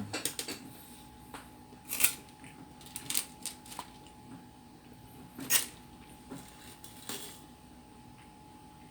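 A handful of short, sharp clicks and small rattles from a chocolate container and its contents being handled while eating, loudest about two seconds in and again about five and a half seconds in.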